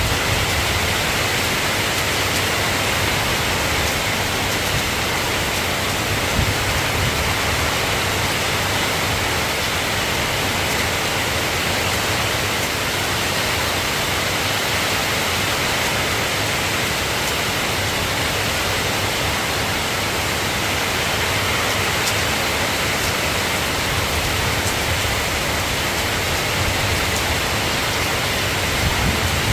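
Soft rain falling steadily, an even hiss that holds unchanged throughout.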